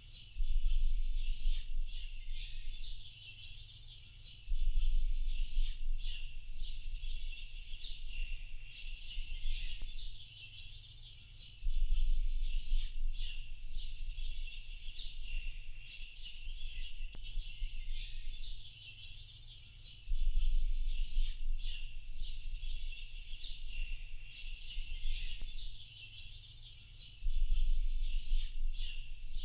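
Dense chorus of many small songbirds chirping and twittering without a break. Under it, a low rumble starts and stops abruptly every several seconds, lasting a few seconds each time; these are the loudest moments.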